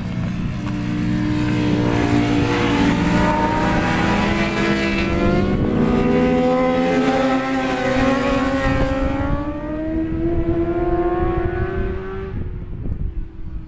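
Track-day racing motorcycle running past at speed, its engine note rising and falling through the corners, then fading near the end.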